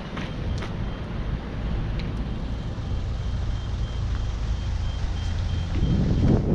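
Street traffic: a motor vehicle's engine rumbling, growing louder toward the end. A faint high-pitched beep repeats quickly through the middle, and there are a few footsteps near the start.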